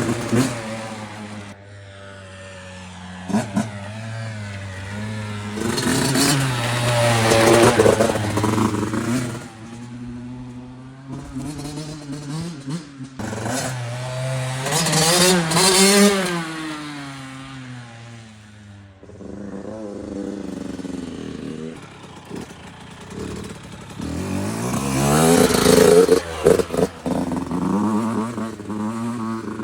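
Yamaha YZ85 two-stroke dirt bike engine being ridden, revving up and easing off several times, its pitch rising and falling with the throttle.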